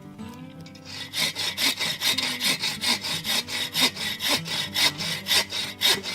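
Hand saw cutting through wood in quick, even strokes, about three to four a second, starting about a second in.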